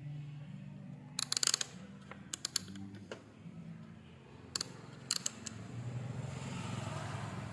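Sharp clicks and clinks from tools and metal parts being handled while a battery charger is taken apart for repair. They come in a few quick clusters, the loudest a burst of rapid clicks about a second in.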